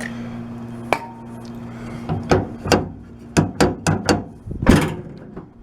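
Tailgate latch mechanism being worked by hand after its corroded rods were lubricated: a single click about a second in, then a run of about seven sharp clacks in the second half.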